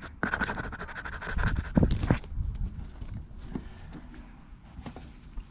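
Cocker Spaniel puppy panting, loudest about two seconds in.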